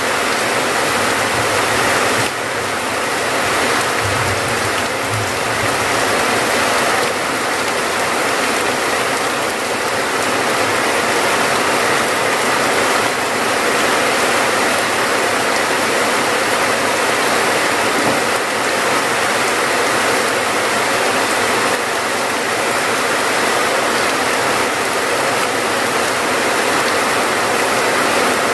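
Rain falling steadily and densely, an even, unbroken patter.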